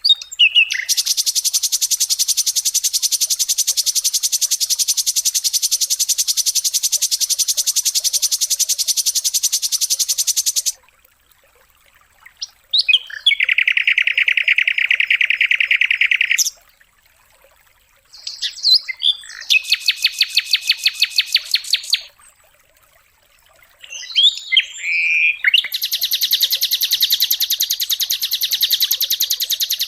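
A songbird's high-pitched, very rapid trills in four long runs with short pauses between, the first run about ten seconds long. This is recorded bird song of the kind played to tutor caged songbirds.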